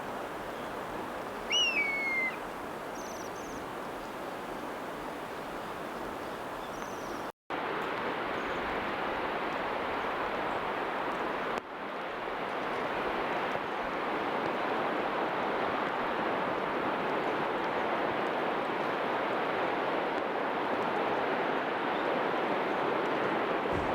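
Steady outdoor background noise, with one short falling bird call about one and a half seconds in and a few faint high chirps after it. The background cuts out for a moment about seven seconds in and comes back slightly louder.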